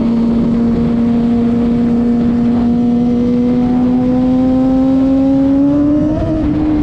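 Suzuki GSX-R600 sport bike's inline-four engine pulling steadily in gear, its note climbing slowly as the bike gains speed, with a brief dip about six seconds in. Wind rush on the onboard microphone runs underneath.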